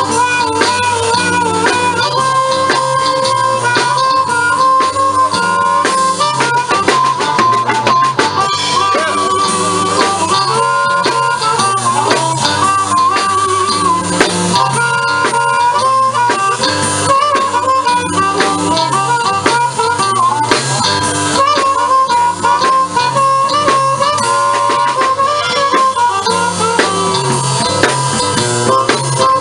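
Live blues band playing an instrumental break: a harmonica solo with bent notes over guitar and drums.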